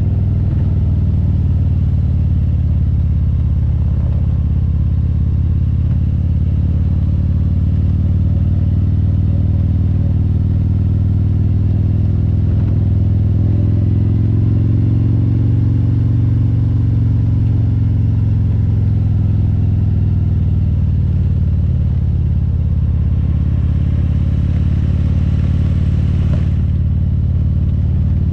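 Harley-Davidson Road Glide's V-twin engine running under way, a steady low note that rises and falls a little in pitch with the throttle.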